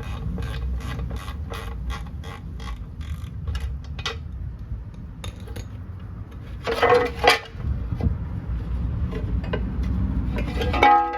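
Wrench work on bolts, clicking and creaking like a hand ratchet. An even run of clicks, about three a second, fills the first few seconds, then two louder metallic knocks come about seven seconds in.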